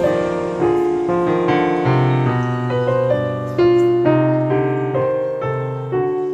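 Background piano music, a melody of single notes over held low tones, each note struck and fading.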